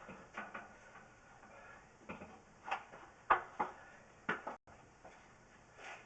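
A handful of irregular sharp clicks and knocks, about five within two and a half seconds, the loudest a little past the middle, over faint background noise.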